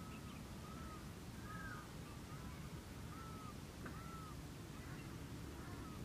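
Birds calling: short notes that rise and fall, repeated about once a second, over a steady low background noise.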